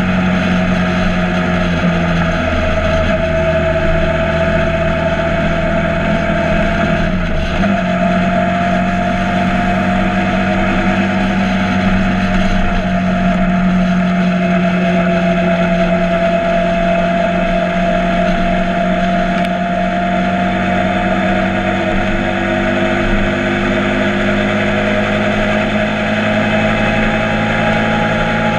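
Motorcycle engine running steadily at cruising speed, its note shifting in pitch a couple of times, with wind rushing over the microphone.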